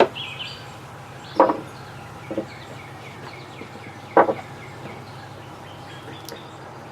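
Metal tools being set down one at a time on a workbench: four sharp clunks over the first four or so seconds. Birds chirp faintly in the background over a steady low hum.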